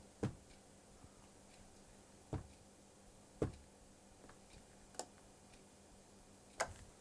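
About five short, sharp clicks, irregularly spaced one to two seconds apart, over a quiet room. They come from handling and switching the audio gear as phantom power is turned on for the cable tester.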